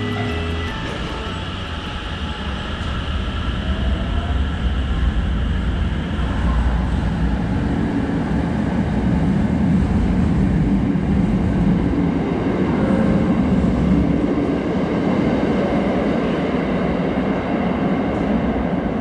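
Thunderbird limited express electric train pulling out along the platform and running past, its motors and wheels growing louder as it gathers speed, loudest around the middle, then easing slightly as the last cars go by.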